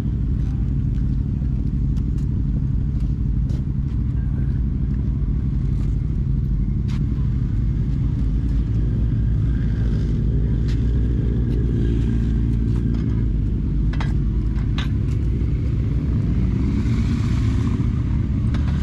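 Kawasaki Ninja 400 race bike's parallel-twin engine idling steadily through its aftermarket exhaust, rising in revs briefly near the end. A few light clicks sound over it.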